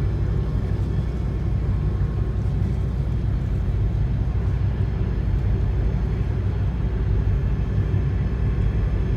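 Towboat's diesel engines running with a steady low drone.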